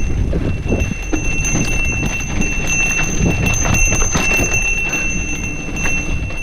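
Mountain bike rolling over a rough dirt trail: a steady low rumble with many quick rattles and knocks from the bike jolting over bumps, and a thin steady high whine running through.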